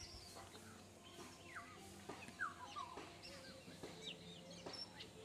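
Faint outdoor bird calls, short falling chirps several times, over a faint steady hum and the soft crumbling of soil being mixed and broken up by hand.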